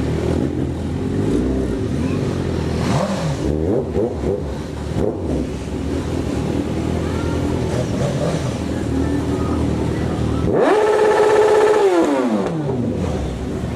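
Motorcycle engine running steadily, then revved hard about ten seconds in: the pitch climbs quickly, holds for over a second and falls away.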